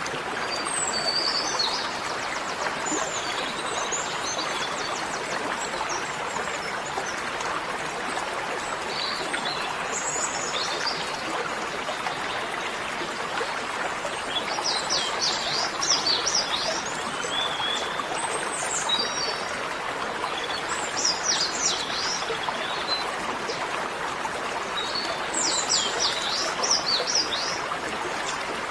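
Birds chirping in short scattered calls, with quick rapid trills around the middle and near the end, over a steady rushing noise like running water.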